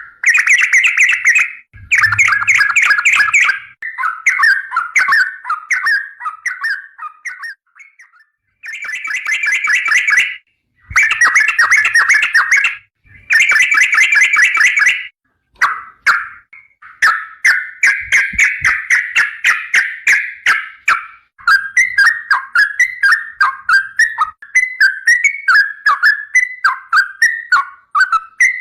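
Yellow-vented bulbul (trucukan) singing loudly in bursts of bubbly, warbled phrases, each a second or two long and separated by short pauses. From just past the halfway point it runs on in a long string of quick chattering notes.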